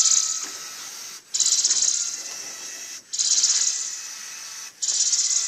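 Small Lego electric motor driving the plastic gears of a model garage door, with a rapid ratcheting, clattering whir. It comes in four bursts about 1.7 s apart, each starting suddenly and fading before a short break.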